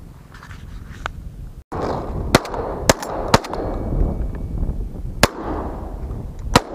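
A volley of shotgun shots: five sharp cracks in about four seconds, three close together, then two more spaced further apart.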